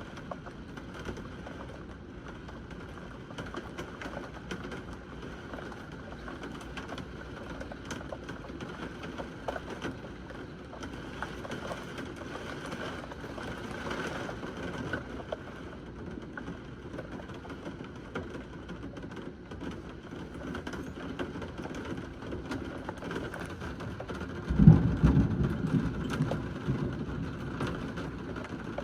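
Steady heavy rain falling, with a sudden loud clap of thunder near the end that rumbles on and fades over a few seconds.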